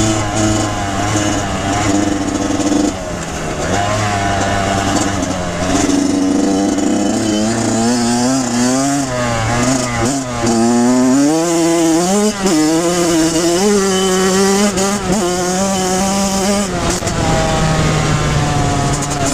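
Kawasaki KX100 two-stroke dirt bike engine being ridden, its revs rising and falling again and again with the throttle, most busily in the middle stretch.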